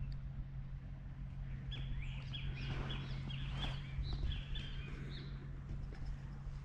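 A bird giving a quick series of short chirps from about two seconds in to about five seconds in, over a steady low background hum.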